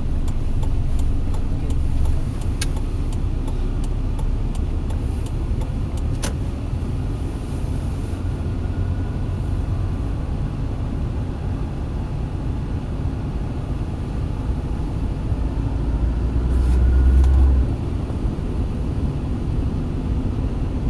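A car being driven, heard from inside the cabin: a steady low rumble of engine and road noise that swells briefly about three-quarters of the way through. There are a few sharp clicks in the first few seconds.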